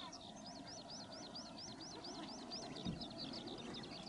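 A bird calling outdoors in a rapid, even series of high chirps, about five a second. A short dull thump comes about three seconds in.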